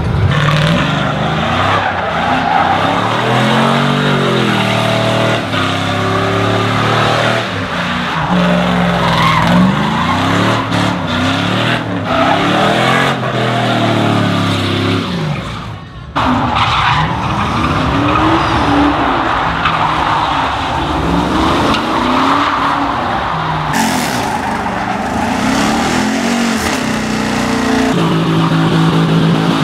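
Truck engine revving up and down over and over during a burnout, with tires squealing against the pavement.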